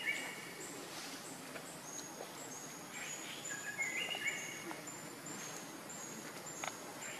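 Birds singing: one repeats a short phrase of stepped whistled notes about every four seconds, over a run of high thin chirps repeated several times a second.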